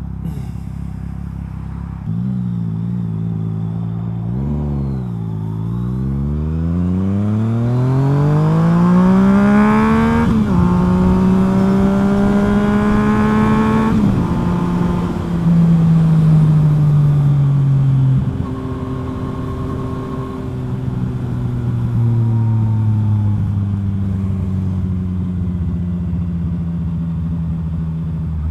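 Yamaha FZ-09's three-cylinder engine through a full M4 exhaust under way: after a short throttle blip it accelerates hard with a long rising pitch, drops at an upshift, then the rider rolls off and the engine winds down in falling pitch as the bike slows.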